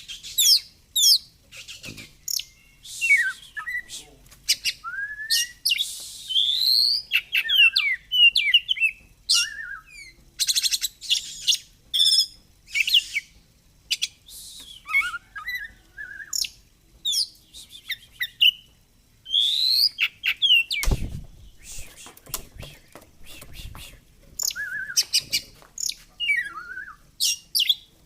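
Oriental magpie-robin singing a long, varied song of quick chirps, sweeping whistles and trills, with barely a pause. A single dull knock comes about three-quarters of the way through.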